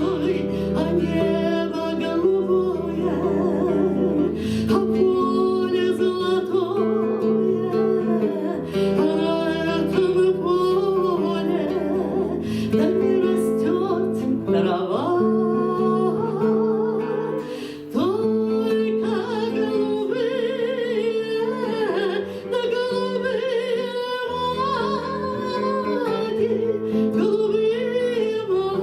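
A voice singing a song to acoustic guitar accompaniment, in the style of Russian author's song (bard song).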